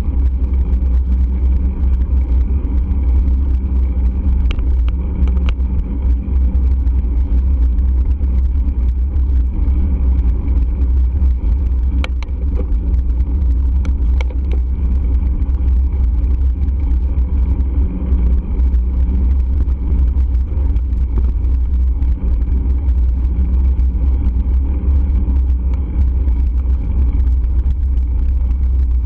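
Steady heavy wind rumble on the microphone of a camera riding on a moving bike, with a constant road hum above it and a few faint clicks around five and twelve to fourteen seconds in.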